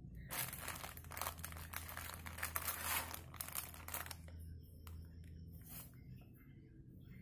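Tempeh's wrapping crinkling and tearing for about four seconds, followed by a few faint clicks and rustles.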